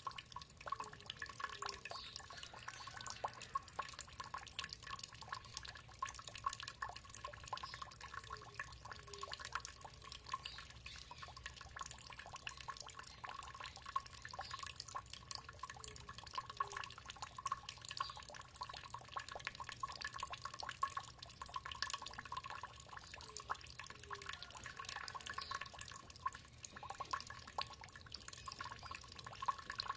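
Water trickling and dripping steadily, a dense patter of small drops and splashes.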